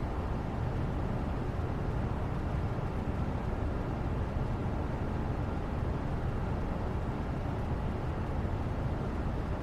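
Steady, even background noise that sits mostly low, like a rumble, with no distinct sounds standing out.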